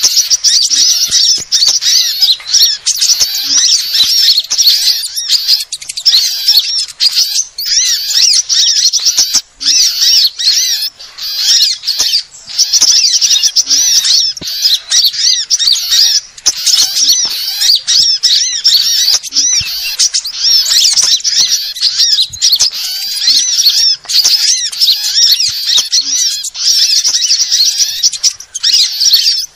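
Sunbirds ('kolibri') chirping and twittering in a dense, unbroken stream of rapid high-pitched calls: a bird-lure recording meant to draw in small birds.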